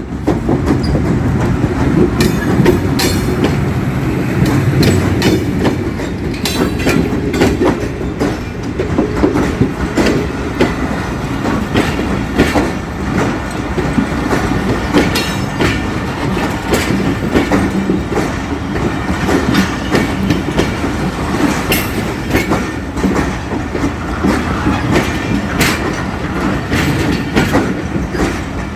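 Passenger train rolling into the station: a steady rumble with wheels clicking over the rail joints throughout, heavier in the first few seconds.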